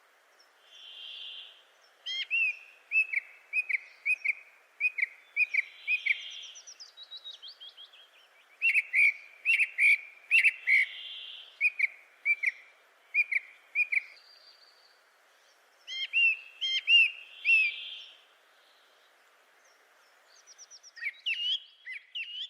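Birds calling: runs of quick, sharp chirps come in several bursts, while a soft, blurred whistled note from another bird repeats every few seconds.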